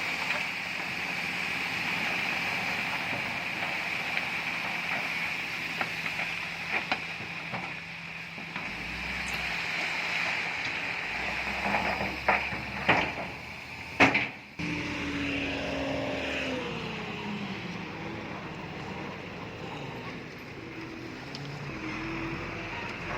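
Diesel engine of heavy earthmoving machinery running steadily, with several sharp metallic clanks in the middle, the loudest about halfway through, followed by a falling tone.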